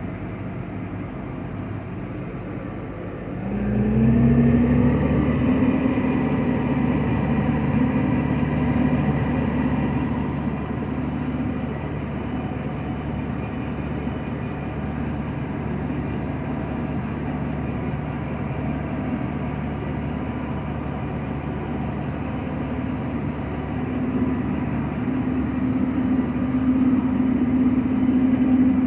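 Large diesel engine of harvest machinery running, revving up with a rising pitch and getting louder about three and a half seconds in, then holding steady at speed; it grows louder again near the end.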